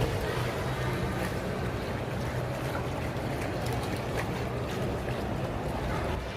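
Steady background ambience of a shopping mall interior: an even hiss over a low, constant hum, with no distinct single event.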